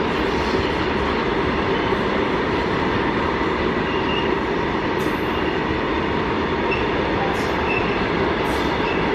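Loaded open ore wagons of a freight train rolling past steadily: a continuous rumble of steel wheels on rail, with a few brief faint wheel squeaks.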